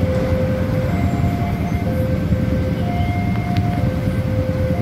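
Passenger train running past a railway level crossing, its wheels a steady loud rumble on the rails. Over it, the crossing's electronic warning alarm sounds, alternating between a low and a higher tone about once a second.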